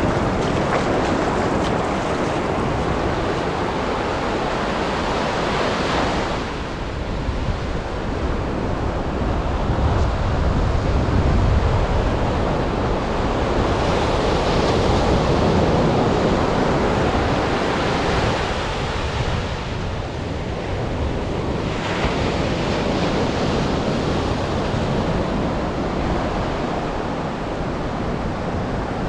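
Atlantic surf: waves breaking and washing up the beach in a continuous wash that swells every few seconds, with wind rumbling on the microphone.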